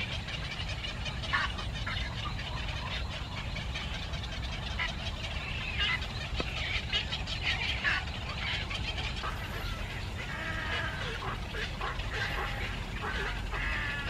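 Small birds cheeping: many short, high chirps in quick succession, over a steady low rumble.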